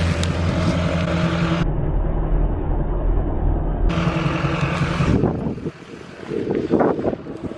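A motor vehicle's engine running steadily with a low hum, with abrupt changes in the sound like edits. It gets quieter about five seconds in, and a few knocks follow near the end.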